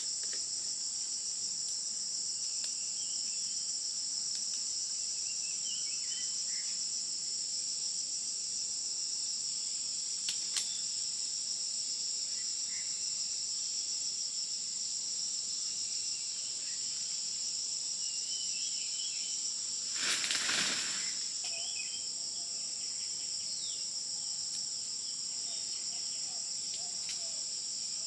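Steady, shrill insect chorus at two high pitches, with faint scattered bird chirps. A brief noisy burst, the loudest moment, about twenty seconds in.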